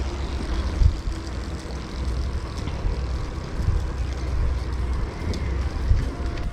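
Wind buffeting the microphone while cycling: an irregular low rumble that swells and drops in gusts, under a faint steady background noise.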